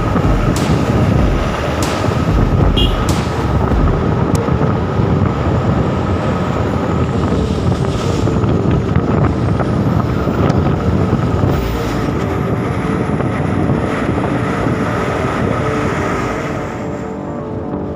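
Heavy truck engine running while under way: a steady, loud drone mixed with road noise, with a few sharp clicks in the first few seconds.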